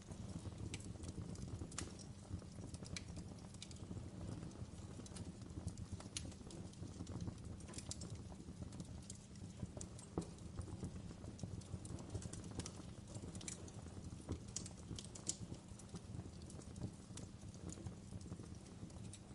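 Wood fire burning in a fireplace, crackling: irregular sharp pops and snaps of burning firewood over a steady low rumble of flames.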